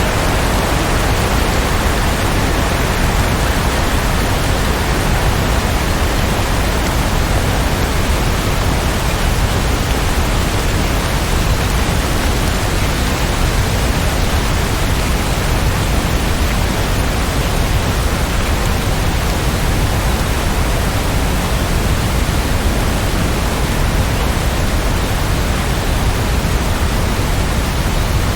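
Steady rainfall: an even, unbroken hiss with no single drops or other events standing out.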